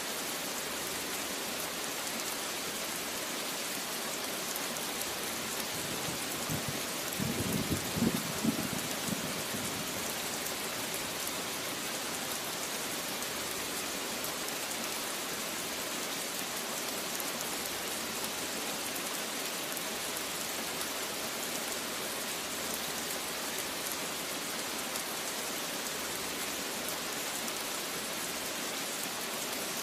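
Steady heavy rain falling on a surface, with a brief low rumble of thunder about seven to nine seconds in.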